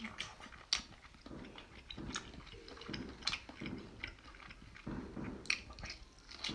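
A person biting and chewing seafood close to the microphone, with wet mouth sounds and a run of sharp crunches and clicks.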